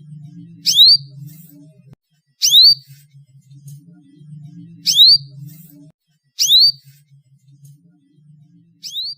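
Canary call: a short, loud rising whistle repeated five times about two seconds apart, over faint low background music.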